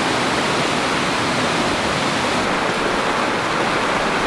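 Small creek waterfall: a steady, loud rush of falling water.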